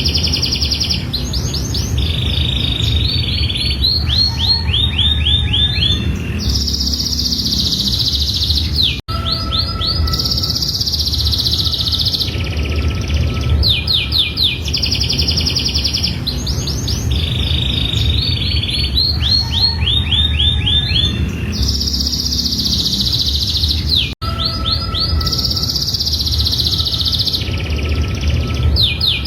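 Domestic canary singing a long, high-pitched song of rapid trills, rolling repeated notes and held buzzy tones. The same song passage repeats about every 15 seconds, with a brief cut-out between repeats, over a steady low background rumble.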